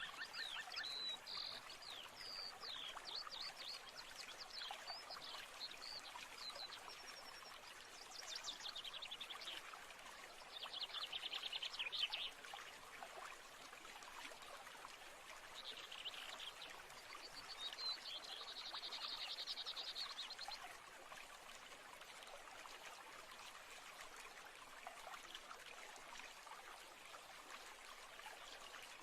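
Nature soundscape: a stream running steadily, with birds chirping and giving fast trills over it; the calls stop about two-thirds of the way through, leaving only the running water.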